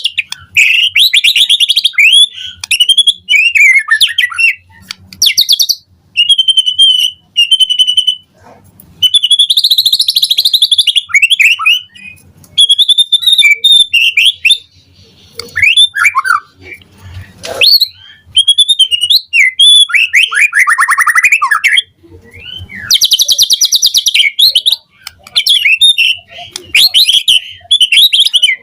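White-rumped shama (murai batu) singing its full varied song in bursts: clear whistles, quick rising and falling notes and rapid buzzy trills, with short pauses between phrases.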